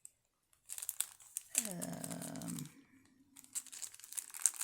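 Crinkling of packaging being handled, in two spells of crackly rustling, with a short hummed vocal sound in between, about a second and a half in.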